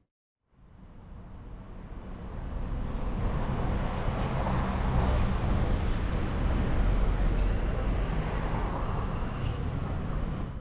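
Steady wind and rolling noise on the camera microphone of a moving bicycle, fading in after a moment of silence. A faint high whine joins in over the last few seconds.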